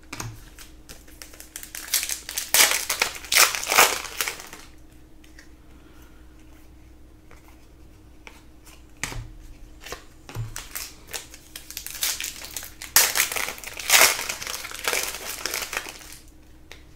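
Crinkling of a foil trading-card pack wrapper being handled and opened, in two bouts of a few seconds each, the first about two seconds in and the second past the middle.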